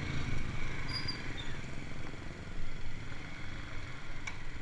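Steady low rumble of a vehicle on the move, with a faint engine hum, a few short high chirps about a second in and a sharp click near the end.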